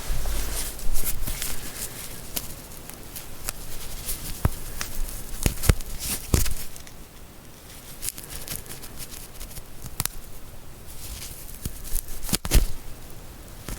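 Foley of clipping: irregular sharp snips and clicks, a dozen or so spread unevenly, with soft rustling between them.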